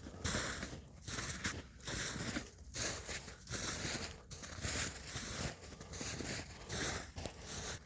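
Footsteps crunching in snow: a steady walking pace of about one crunchy step a little under every second.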